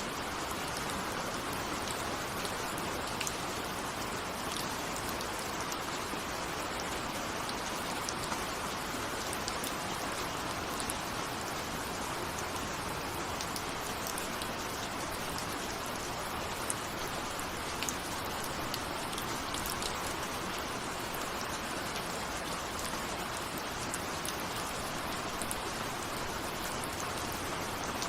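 Steady rain falling, with many separate drops ticking on a window. The hiss holds even throughout.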